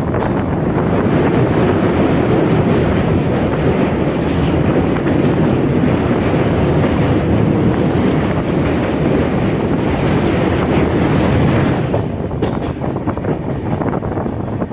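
Train running along the track: a loud, steady rumble with the clatter of wheels over rail joints, easing a little about twelve seconds in.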